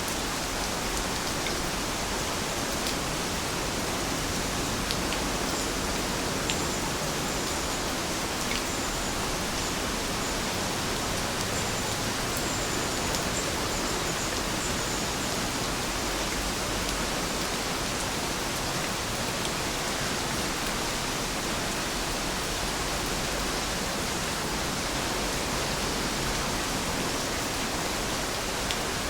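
Steady rain falling, an even hiss with an occasional sharper drop tick. A few faint high chirps sound over it in the first half.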